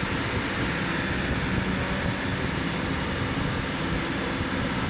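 Steady running noise from a 1997 Honda Civic's 1.6-litre engine and its fan, with the air-conditioning system connected to manifold gauges for testing.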